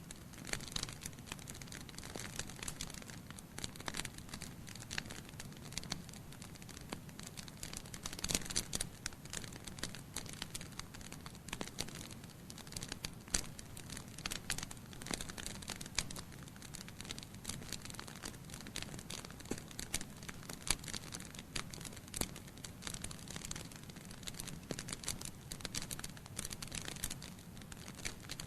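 Wood fire crackling in a fireplace: burning logs popping in irregular sharp clicks over a steady hiss, with a denser run of pops about eight seconds in.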